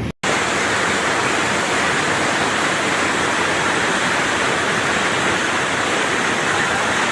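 Floodwater rushing in a loud, steady torrent, starting abruptly a moment in.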